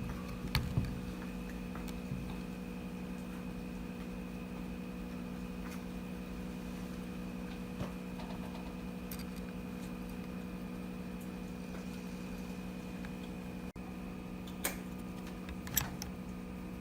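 A steady hum with several constant pitches, broken by a few light clicks and taps: two about a second in and two near the end.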